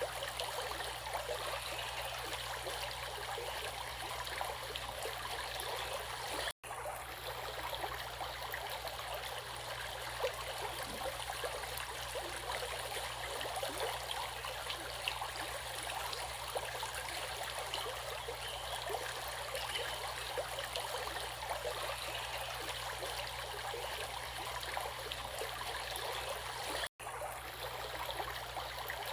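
Water flowing in a stream: a steady, even rush with a fine babbling crackle. It cuts out for an instant twice, about six and a half seconds in and near the end.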